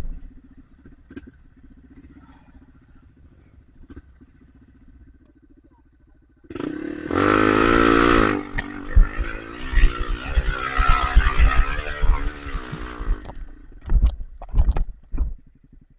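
Dirt bike engine idling faintly, then revved hard about six and a half seconds in, its pitch climbing, followed by several seconds of uneven revving and short blips of the throttle, with a few brief bursts near the end.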